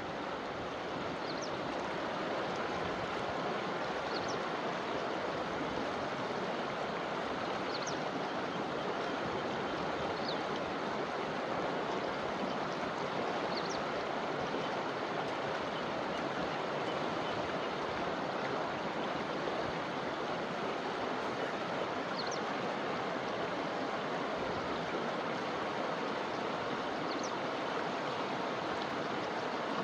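River water flowing in a steady rush. Faint short high chirps come through every few seconds.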